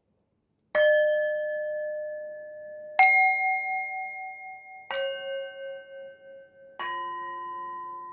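Singing bowls struck four times, about two seconds apart, each at a different pitch. Each note rings on and slowly fades under the next one.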